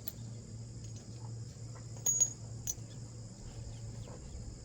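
Crickets chirring steadily, with a few light metallic clinks about two seconds in as small metal parts are set down.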